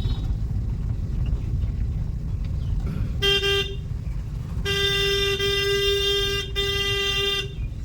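A vehicle horn sounds a short honk about three seconds in, then a long honk a second later that wavers briefly near the end. Underneath is the steady low rumble of a car driving slowly, heard from inside the cabin.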